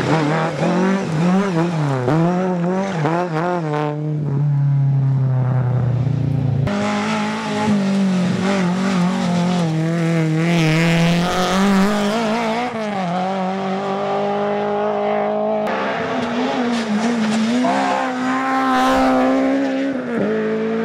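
Rally cars driven hard on a stage, their engines revving up and down through gear changes at high revs. The sound changes abruptly about 7 and 16 seconds in, as one car gives way to another.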